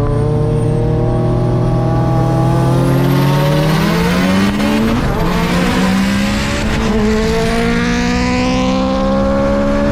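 Car engine accelerating hard, its pitch climbing steadily for about four and a half seconds, dropping briefly at a gearshift, then climbing again through the next gear.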